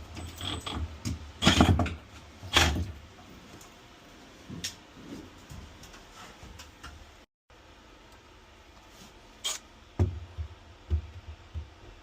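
Scattered knocks and thuds, with a few loud ones in the first three seconds and another cluster near the end.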